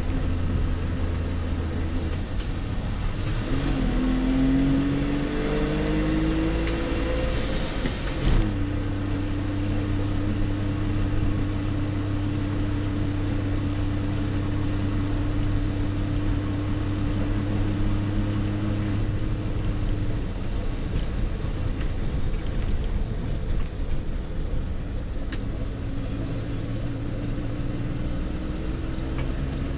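In-cabin sound of a 1966 DKW-Vemag Belcar's three-cylinder two-stroke engine on the move. It rises in pitch as the car accelerates over the first eight seconds, drops abruptly, then holds a steady note while cruising, eases off about twenty seconds in, and picks up again near the end.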